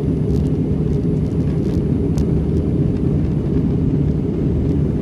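Steady low rumble of cabin noise inside an Airbus A320 airliner in flight on descent: engine and airflow noise heard from an economy window seat.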